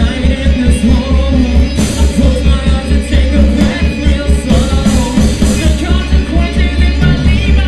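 Live post-hardcore rock band playing loudly: distorted guitars, bass and a drum kit on a quick, steady beat, with singing over it.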